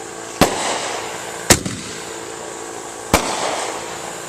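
Consumer fireworks going off: three sharp bangs a second or more apart, each trailing off briefly.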